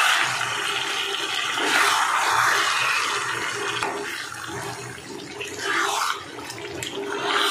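Wet onion, ginger, garlic and green chilli paste sizzling in hot oil with chicken as it is stirred around the pan with a metal spatula, a steady hiss that swells and fades with the stirring.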